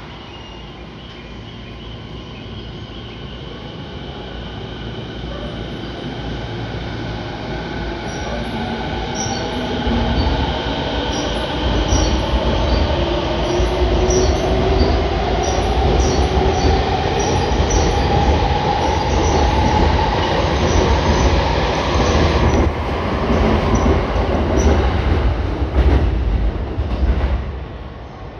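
Tokyo Waterfront Area Rapid Transit 70-000 series electric train pulling out of the station: its motor whine rises steadily in pitch as it gathers speed, over a growing rumble of wheels on rail. The sound drops away suddenly near the end as the last car clears.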